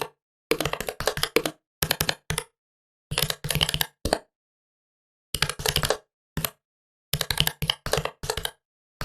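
Typing on a computer keyboard: quick runs of key clicks in bursts, with short pauses between them, including a longer pause about halfway through.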